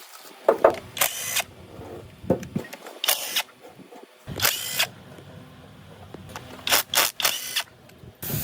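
Workshop tool noise on engine parts: about ten short, sharp bursts, each under half a second, with quiet gaps between them.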